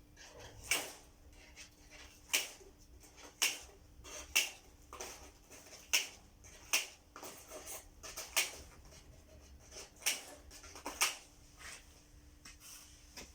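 Reinforcement mesh being cut into pieces with cutters: a run of sharp snips, roughly one a second.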